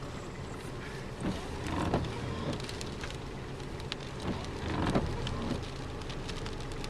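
Storm rain ticking and pattering on a truck, over a steady low rumble, heard from inside the cab.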